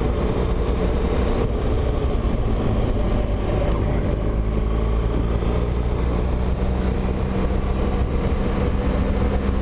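Motorcycle engine running steadily while riding, heard through a helmet-mounted mic with road and wind noise. The engine is most likely the rider's own BMW R1200GS Adventure boxer twin.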